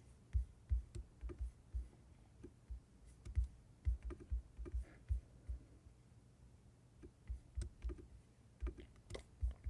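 Irregular light clicks and taps of a computer keyboard and mouse, a few per second, as models are selected in slicer software.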